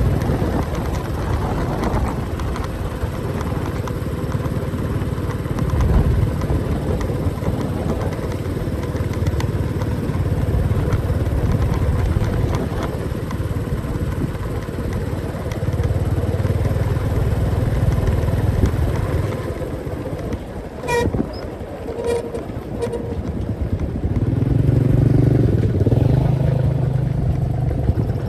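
Motorcycle engine running on the move, with steady wind and road noise over it. About three-quarters of the way in, a vehicle horn gives a few short beeps; near the end the engine note rises as the bike speeds up.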